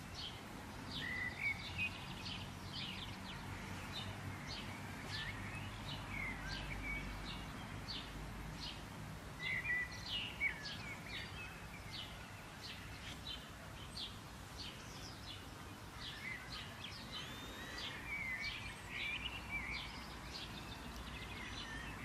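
Wild birds chirping and singing, many short high calls in quick succession, over a low steady background rumble.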